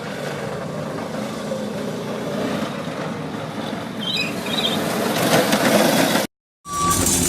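A motor vehicle's engine running steadily and growing louder. It cuts off abruptly about six seconds in, and after a short silent gap a repeating high electronic beep starts, like a reversing alarm, over other vehicle noise.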